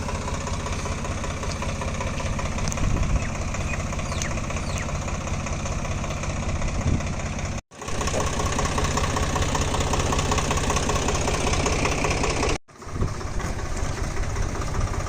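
Diesel tractor engine running steadily. The sound drops out abruptly twice, about halfway through and again near the end.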